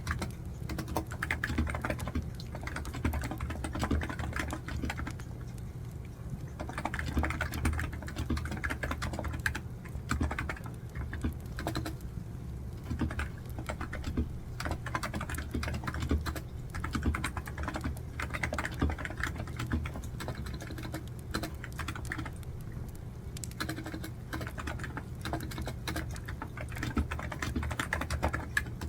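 Typing on a computer keyboard: quick runs of key clicks broken by brief pauses, over a steady low hum.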